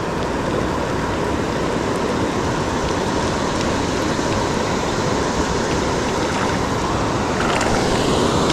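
Steady rushing of water from a waterfall and river, an even wash of noise with no break.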